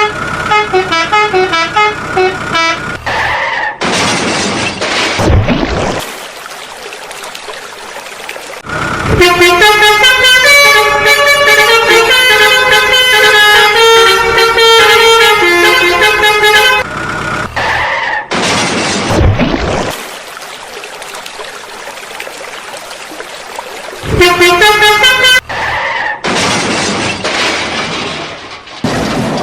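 A multi-tone vehicle horn playing a tune in long stretches, broken several times by bursts of rushing noise.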